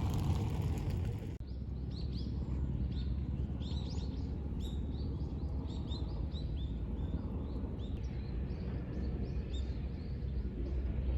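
Wild birds chirping, with many short high calls in quick succession over a steady low rumble. The first second or so is a rougher rushing noise that cuts off suddenly.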